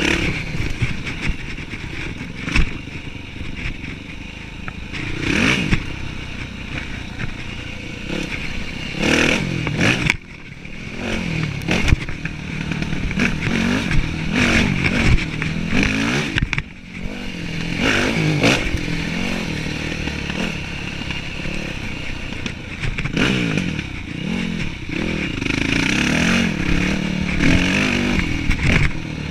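Yamaha WR dirt bike engine revving up and falling back again and again as it is ridden over rough trail, with frequent knocks and rattles from the bike over the ground.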